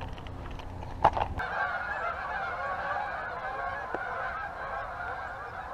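A flock of geese honking in a continuous chorus, starting abruptly about a second and a half in. Just before it, a low rumble stops and a single sharp click, the loudest moment, sounds about a second in.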